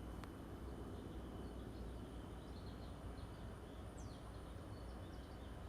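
Quiet background with a low steady hum, faint high bird chirps, and two quick falling calls in the second half. There is a single soft click just after the start.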